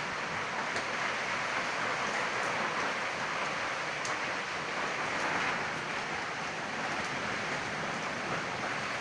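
Heavy rain falling in a steady hiss, with a few faint ticks of drops.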